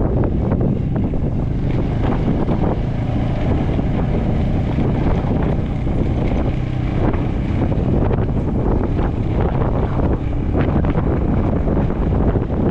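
Wind rushing and buffeting over the microphone during a ride, over a steady low rumble from the moving vehicle.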